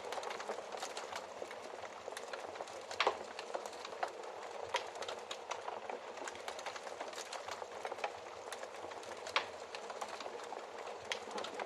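Wood fire crackling steadily with many small pops and snaps, two sharper pops standing out about three seconds in and again about nine seconds in.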